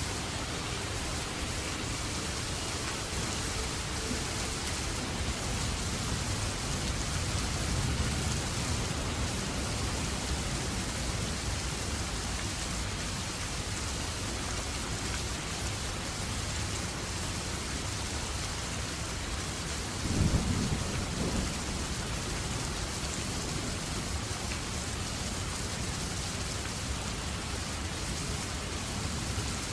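Steady rain falling, an even hiss. About twenty seconds in comes a short, louder low rumble.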